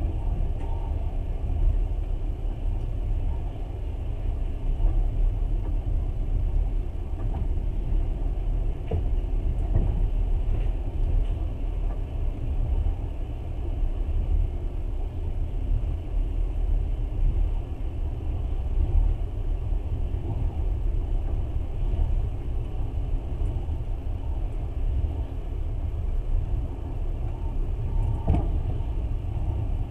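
Steady low rumble of a moving passenger train, heard from inside the carriage, with a few faint knocks.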